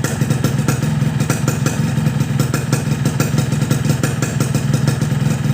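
Yamaha RX-King two-stroke motorcycle engine running steadily through a Boban C33 aftermarket exhaust, a fast, even train of exhaust pulses with no revving.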